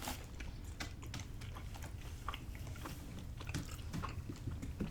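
A person chewing a mouthful of pepperoni and jalapeño pizza close to the microphone, faint, with scattered small clicks and soft crunches of the bite.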